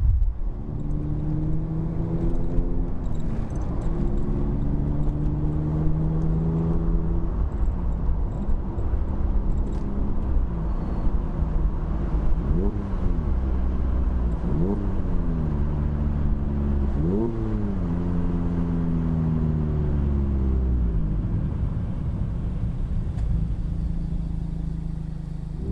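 Mazda ND MX-5 Miata's four-cylinder engine through an aftermarket AIMGAIN valved exhaust, pulling up in pitch and dropping back twice as it shifts up. Midway come three quick sharp revs, then the engine note falls away and settles.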